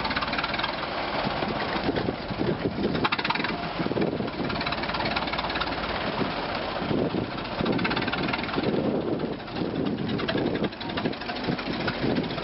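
Vintage car engine running unevenly.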